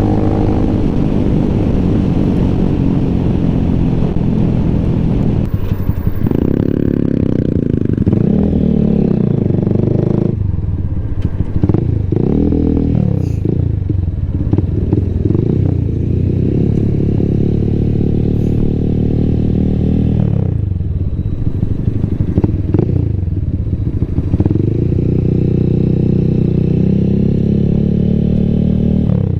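Small motorcycle engine running under way, heard from on the bike. Its pitch rises and drops several times as the rider accelerates, shifts and slows.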